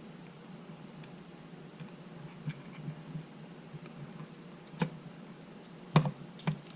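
A few small sharp clicks and light taps of hands handling small camera parts and an LCD panel on a workbench, the loudest two about five and six seconds in.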